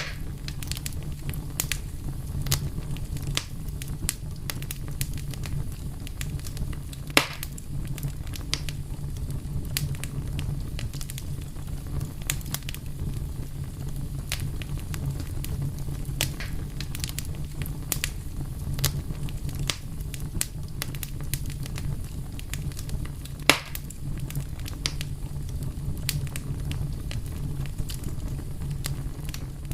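Fire crackling steadily over a low rumble, with frequent small crackles and two sharper, louder pops, one about seven seconds in and one past twenty seconds.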